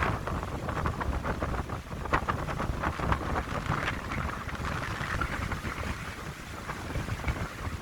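Wind blowing through a coastal pine grove: a gusting hiss of the trees that swells and fades, over a steady low rumble of wind buffeting the microphone.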